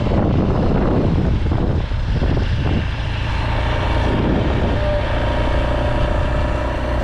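Motor vehicle on the move: steady engine and road noise with a strong low rumble.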